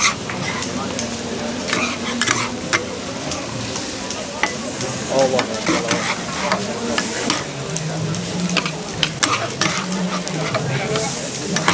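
Food sizzling as it fries in a pan, with a metal spatula stirring it and striking the pan in irregular clinks and knocks.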